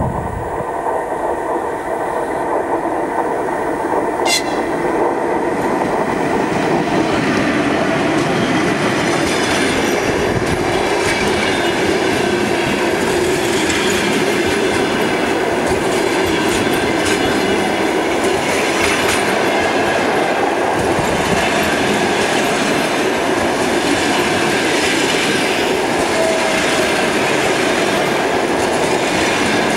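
Passenger train passing at speed, its wheels rolling and clattering steadily over the rail joints.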